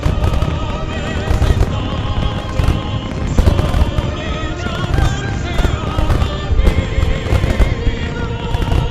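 A wide starmine fireworks display: shells burst in quick succession, with many sharp cracks and booms at uneven intervals. Loud music with a wavering melody plays along with the display.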